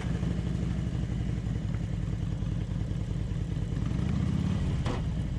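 Harley-Davidson Ultra Classic's V-twin engine idling steadily, with a brief click about five seconds in.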